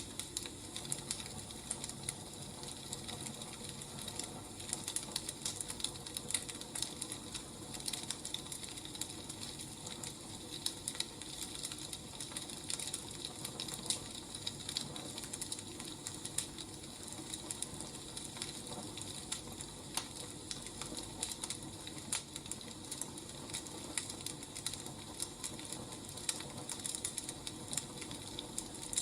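Firewood burning, with a steady hiss and frequent irregular crackles and pops.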